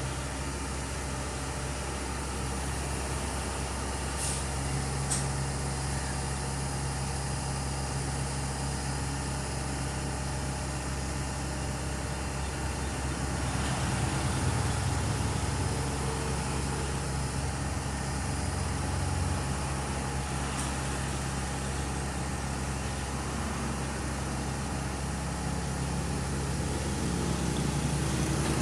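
Heavy diesel engine running steadily with a low hum, swelling louder about halfway through and again near the end. Two short clicks come a few seconds in.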